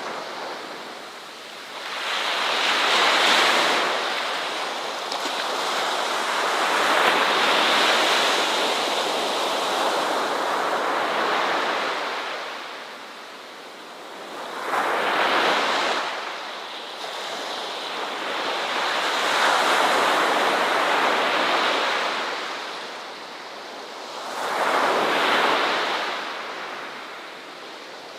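Ocean waves breaking on a shore, each one swelling up into a rushing wash and then ebbing away. Five waves come in across the stretch, a few seconds apart.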